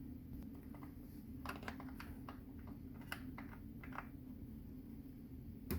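A scatter of light, irregular clicks and taps from hand tools and small parts being handled while screws are taken off a dishwasher panel, with a sharper click near the end.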